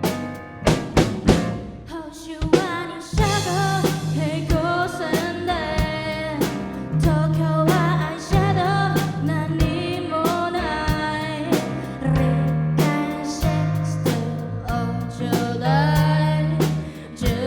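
Live band playing: drum kit hits over a steady bass line, with a singer's voice coming in about three seconds in.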